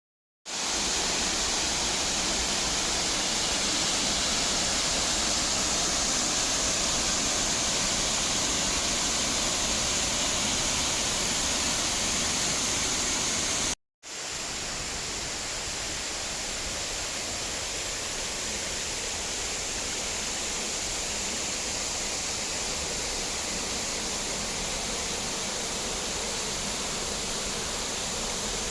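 Waterfall rushing steadily, a dense even roar of falling water. It cuts out for an instant about halfway through and resumes slightly softer and less hissy.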